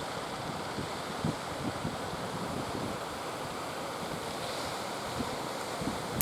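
Steady wash of sea surf, with wind buffeting the microphone in low irregular gusts.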